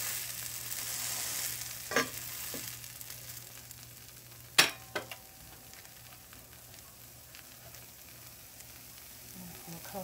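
Plant-based chicken patty frying in oil in a small cast iron skillet: a steady sizzle, strongest in the first two seconds and easing off after. A few sharp knocks break in about two seconds in and again around four and a half to five seconds, the loudest near the middle.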